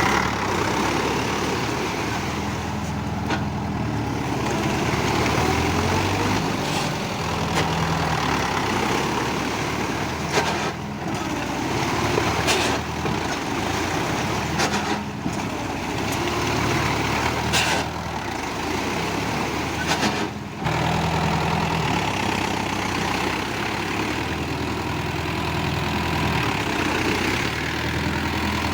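Mahindra tractor's diesel engine running at low speed, its pitch stepping up and down a little as the throttle changes. There are a few short sharp clicks along the way.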